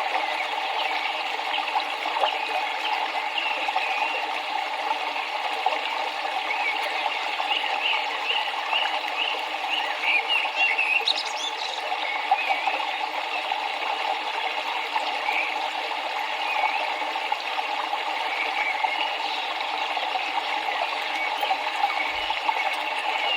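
Running river water with a steady rushing flow, and small birds chirping over it again and again.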